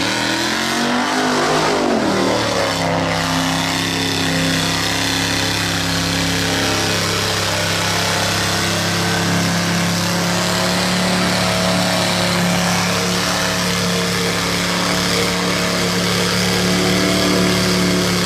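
Off-road vehicle engine revving briefly, then running at a steady speed with an even, constant note.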